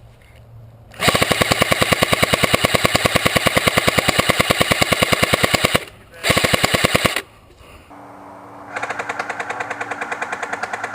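Airsoft gun firing full-auto: a long burst of rapid, evenly spaced shots about a second in, a short burst just after, then quieter continuous full-auto fire near the end.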